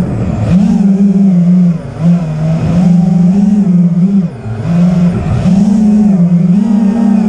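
A loud, steady motor drone whose pitch wavers gently up and down, dipping briefly twice.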